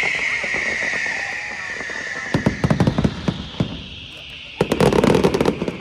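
Fireworks display: a long, loud whistle that slowly falls in pitch, then sharp pops and crackles, with a dense volley of crackling bangs near the end.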